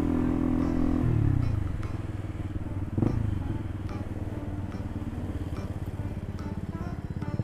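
Motorcycle engine under way: the revs drop about a second in as the throttle closes, then it runs slowly with an even pulsing beat. A single sharp knock comes about three seconds in.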